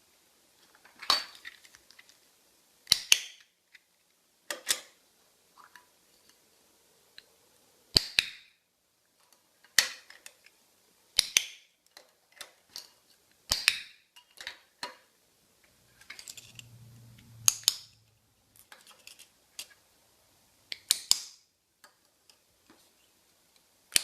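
Pet-training clickers clicked one at a time, different clickers compared by sound. There is a sharp click every one to two seconds, about a dozen in all, and many come as a quick double click of press and release.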